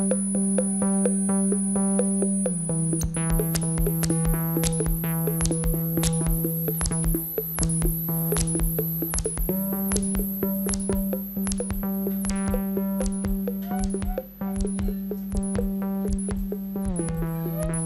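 Improvised electronic music: a sustained synthesizer drone with many overtones, its pitch stepping down, then up, then down again, joined about three seconds in by a regular clicking pulse of roughly two beats a second.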